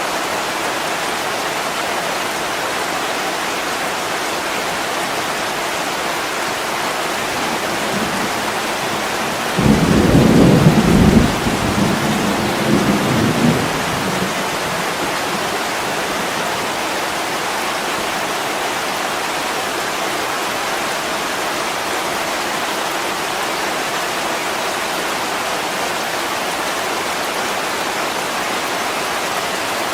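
Heavy rain falling steadily on a window, with a low rumble of thunder rolling in about ten seconds in and dying away over about four seconds.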